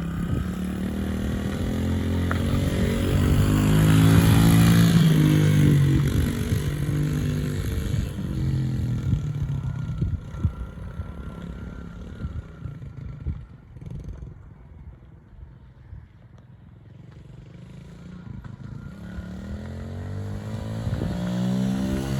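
Dirt bike engine revving up and down as it rides, loudest about four seconds in, then fading away to faint in the middle before growing louder again near the end.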